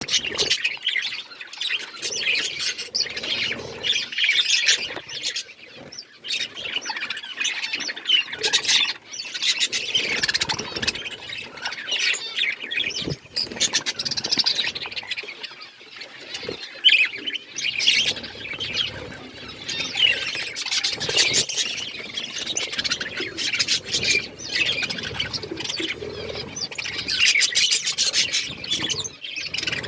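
Budgerigars chattering and chirping continuously, several birds at once, with dense warbling and occasional squawks.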